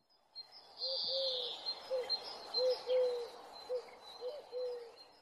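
Birds calling: a run of about eight short, low arched notes over four seconds, some held a little longer, with fainter high chirping behind.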